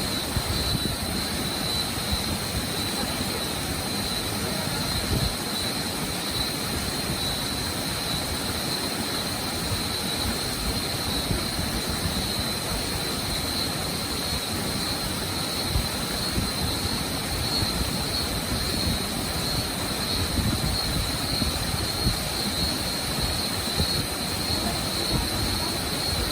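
Waterfall rushing in a steady, even roar.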